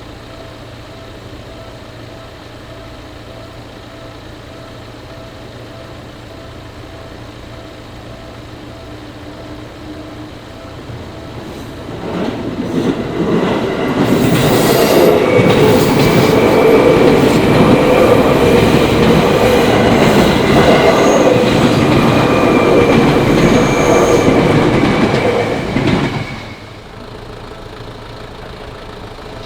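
Japanese level-crossing warning bells ringing steadily, then a Seibu Haijima Line electric train passing through the crossing. The train swells in about twelve seconds in and is loud for about twelve seconds, with wheels clattering over the rails and a thin high tone above. It cuts away sharply near the end, leaving the crossing bells ringing.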